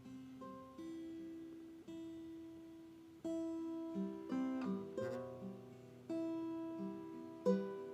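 Background music: acoustic guitar playing slow plucked notes with a strummed chord every second or two.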